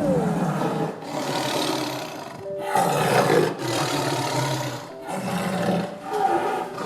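A big cat roaring and growling in a series of about six rough calls, each about a second long, with short breaks between them.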